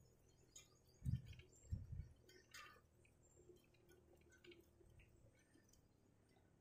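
Near silence, with two soft low thuds about one and two seconds in and faint scattered ticks.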